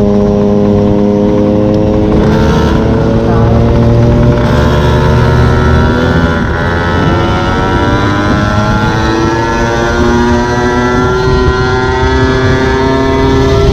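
Small two-stroke engine of a gas-powered stand-up scooter running hard under way, its buzz holding steady for a few seconds and then climbing slowly in pitch as it gathers speed, over a low rumble of wind and road.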